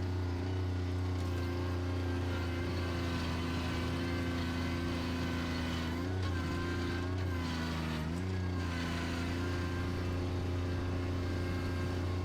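Bobcat tractor engine running steadily under way. Its pitch dips and comes back up twice, between about six and eight seconds in.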